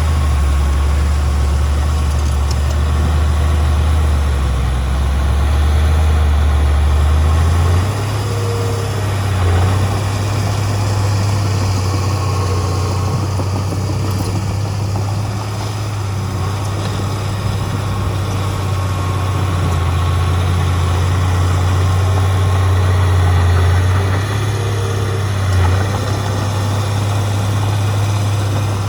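Heavy diesel engine of earthmoving machinery running steadily with a low drone. Its note shifts about 8 seconds in, and it gives two brief bumps later on.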